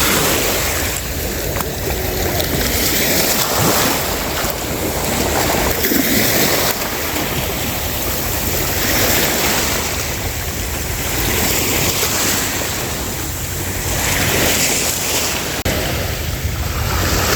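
Ocean waves washing in on the shore, swelling and easing every three to four seconds, with wind buffeting the microphone.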